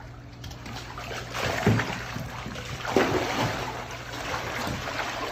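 Alligators feeding in their pool: water sloshing and splashing as they lunge at the food, with two louder splashes about one and a half and three seconds in.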